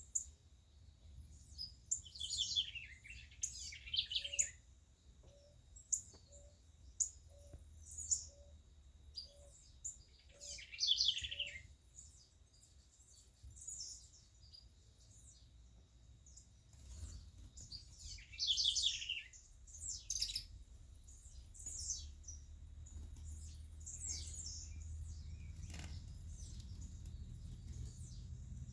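Several songbirds chirping and calling, with a louder descending trilled phrase repeated three times, over a steady low background rumble. A faint low note repeats about every three-quarters of a second for several seconds in the first half.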